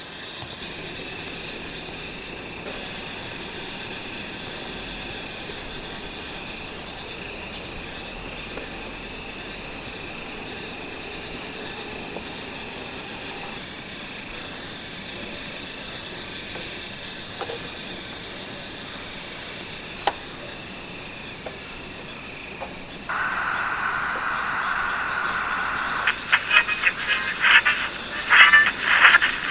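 Chorus of insects and frogs: steady high trilling with an even pulse runs throughout. A louder chorus joins about 23 s in, and from about 26 s rapid, pulsing frog calls are the loudest sound.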